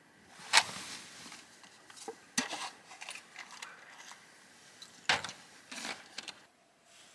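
Sharp clicks and snaps from objects being handled, with softer rustling between them; the three loudest come about half a second, two and a half and five seconds in.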